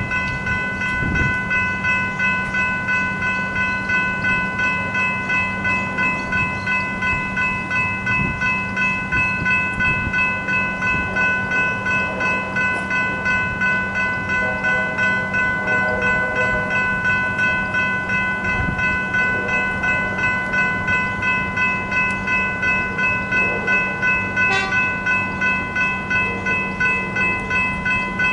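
Level crossing warning bells ringing steadily, an electronic ding repeating about two to three times a second.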